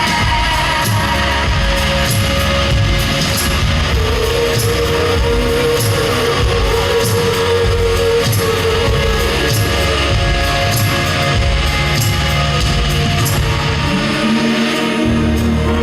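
A live band playing an instrumental passage: electric guitar over a steady drumbeat, with a long held note from about four seconds in.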